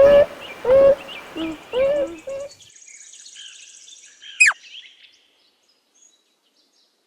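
Beaver vocalizing: a run of short, whining cries, about two a second, that stop about two and a half seconds in. Faint high chirps and one sharp falling chirp follow about four and a half seconds in, then silence.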